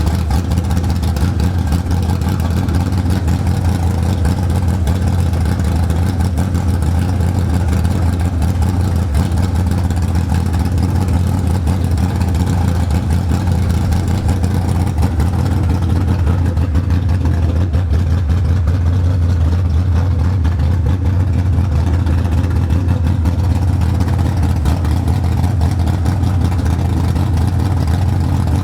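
Newly installed race car engine running steadily at a loud, even idle, with no revving.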